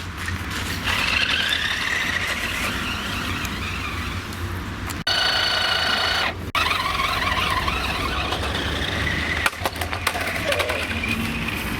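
Electric motor of a toy remote-controlled monster truck whining, its pitch wavering up and down, over a steady low rumble. About five seconds in, a steady multi-pitched tone abruptly replaces it for about a second and a half, then the whine returns.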